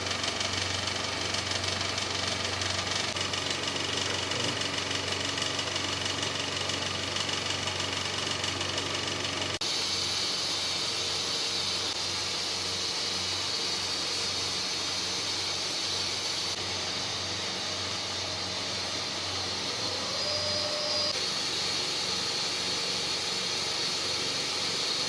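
A 70cc single-cylinder motorcycle engine running steadily, with a hiss over it; the sound changes abruptly about ten seconds in.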